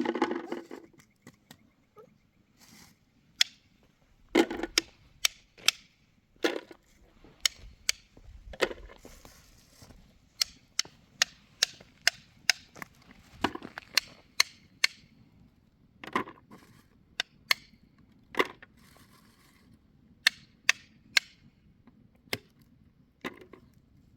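An irregular series of sharp knocks, roughly one or two a second, some followed by a brief ring.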